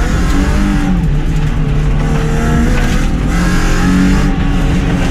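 Car engine pulled hard at high revs through an autocross run, its pitch climbing and dropping several times as the driver accelerates and lifts.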